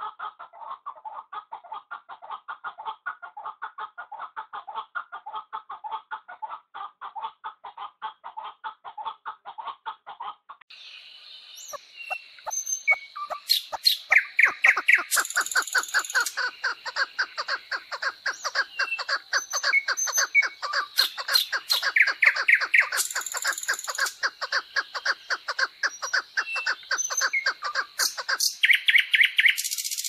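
Birds calling in a rapid, evenly repeated run of short notes. About ten seconds in the sound changes: it grows louder and busier, with a steady high-pitched tone and bright chirps over the repeated notes.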